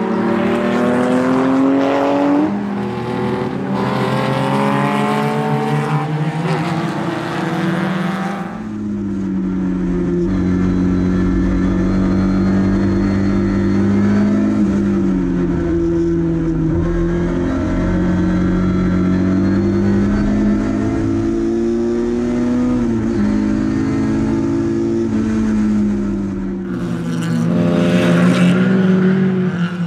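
Lada 2102 race car's four-cylinder engine at racing revs. For the first eight seconds it revs up, drops at a gear change and climbs again. Then it becomes a steady drone heard inside the cabin, its pitch rising and falling gently, before it is louder again near the end.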